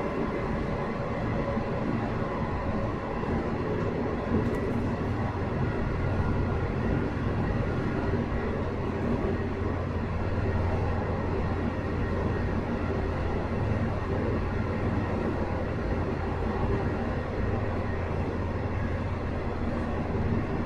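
A Sanriku Railway 36-700 series diesel railcar running along the line, heard from inside the passenger cabin: a steady rumble of diesel engine and wheels on rail. The low engine hum grows stronger about six seconds in and holds.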